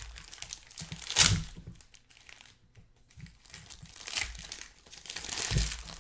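Plastic wrappers of trading card packs crinkling and tearing as packs are ripped open and cards handled, with a sharp loud crinkle about a second in and a quieter pause in the middle.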